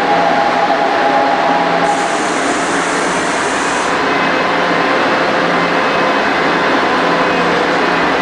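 Steady, loud train noise in a station, a continuous rumble with faint steady whining tones. A high hiss joins for about two seconds near the middle.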